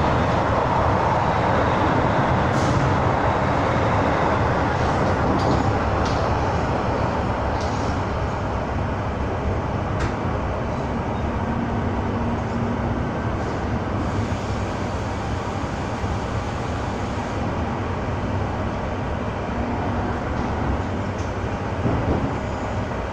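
Metro-Cammell MLR electric train running, heard from inside a passenger car: a steady rumble and rail noise that eases off slightly, with a couple of sharp clicks.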